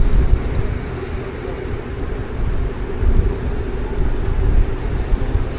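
City street traffic running, with wind buffeting the microphone in a heavy low rumble.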